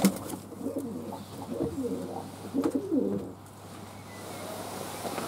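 Fantail doves cooing: a run of several low coos over the first three seconds or so, then quieter.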